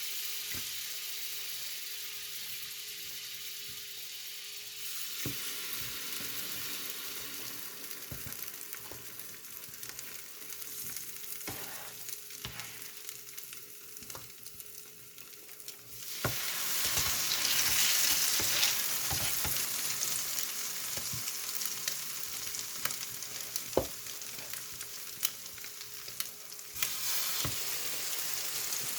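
Egg-dipped bread frying in butter on a hot electric griddle, a steady sizzle that grows louder about halfway through and again near the end, with occasional light clicks and taps of a utensil.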